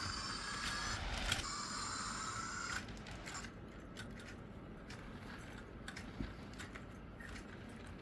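Old Athearn model locomotive's electric motor and gears whining at a steady pitch as it pulls the train, stopping about three seconds in; faint scattered clicks follow.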